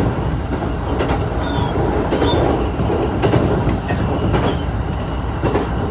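Shinano Railway train running along the track: a steady rumble of wheels on rail with occasional clicks and a few brief, faint wheel squeaks.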